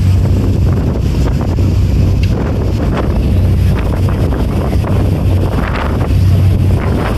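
Wind buffeting the microphone on a speedboat under way, over the steady low drone of its engine and rushing water.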